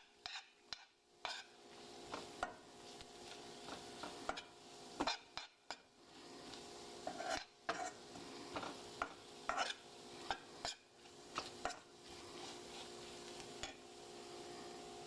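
A spoon stirring in a cooking pan, clinking and scraping against the pan at an irregular pace, over a faint sizzle of the cooking filling.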